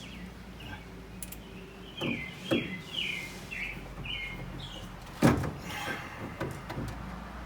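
Birds chirping in a quick run of short, high chirps, over a faint steady low hum. A few sharp knocks cut in, the loudest about five seconds in.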